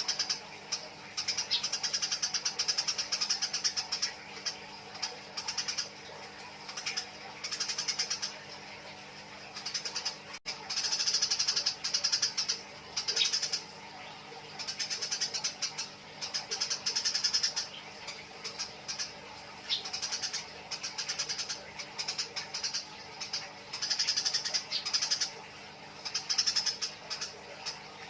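Eurasian tree sparrows chattering harshly as they fight, in repeated bursts of rapid shrill chirps, each about a second long, with short gaps between.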